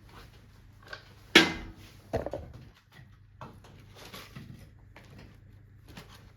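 Wood fire of alder, birch and oak logs crackling in a fireplace, with irregular sharp pops; the loudest snap comes about a second and a half in, with another strong one just after.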